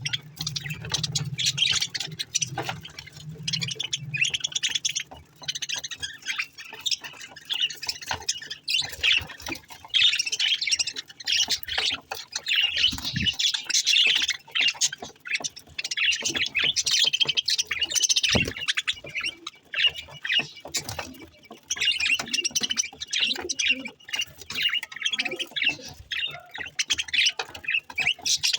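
Pet budgerigars chattering and warbling continuously, a fast run of high chirps and squawks.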